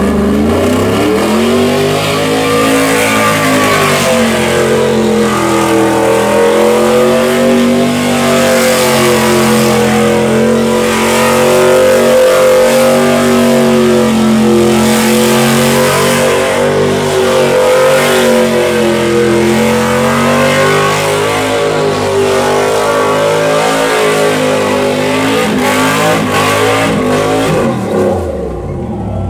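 A vehicle's engine revved up and held at high revs, the pitch wavering slightly as the throttle is worked, then dropping back near the end.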